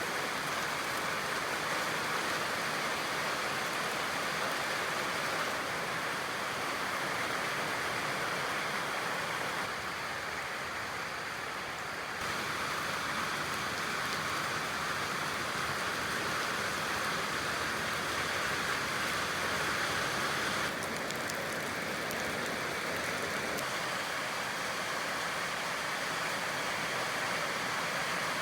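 Steady rain falling, a dense even rush of noise with no single drops standing out; its tone and level shift abruptly a few times.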